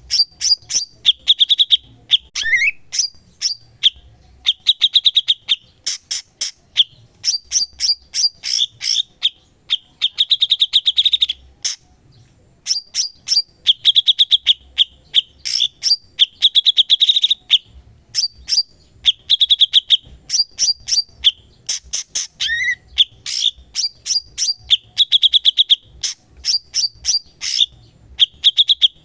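Cucak cungkok singing in full, energetic song: fast trills of rapidly repeated high notes alternating with quick clicking chatter, with a short rising whistle twice, a couple of seconds in and again near the end, and a brief pause about halfway.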